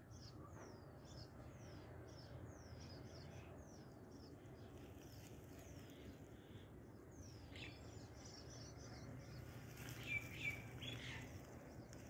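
Faint birds chirping: short, high, falling chirps repeat about twice a second through the first half, and a few louder calls come near the end, over a low steady rumble.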